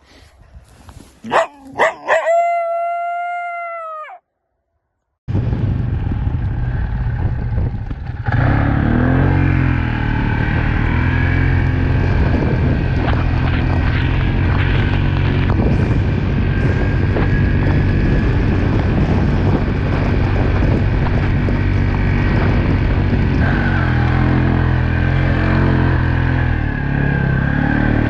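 A single howl rises and holds for about two seconds, then cuts off. After a brief silence a vehicle engine starts running steadily and loudly, with road noise, through the rest.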